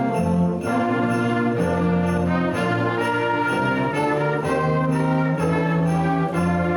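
Instrumental holiday music played by a student ensemble: sustained full chords that change every second or so, at a steady level.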